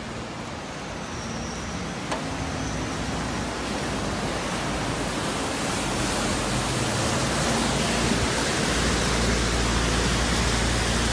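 Heavy rain pouring down, a steady hiss of water that grows louder over the seconds, with a low rumble underneath.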